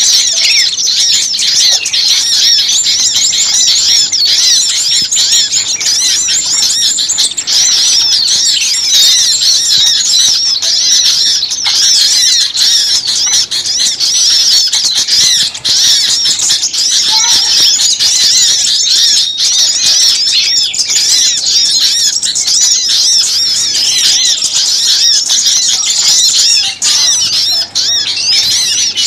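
A dense chorus of many small songbirds chattering and twittering at once, rapid high-pitched chirps overlapping without a pause. It is a noisy, agitated small-bird lure recording of the kind played to draw birds in.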